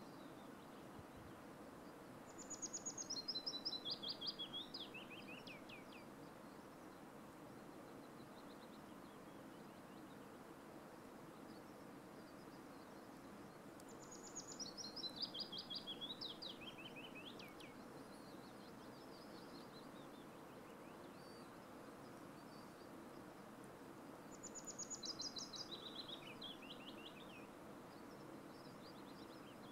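A songbird sings three times, about ten seconds apart. Each song is a quick run of notes stepping down in pitch and lasting about three seconds, over a faint, steady background hiss.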